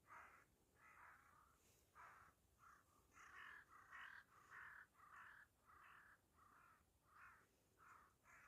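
A flock of crows cawing faintly, about fourteen caws in a row, one roughly every half second, crowding together in the middle.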